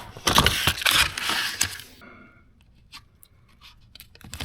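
A dishwasher part being pulled loose and handled: about two seconds of loud scraping and tearing, then a few light clicks and knocks.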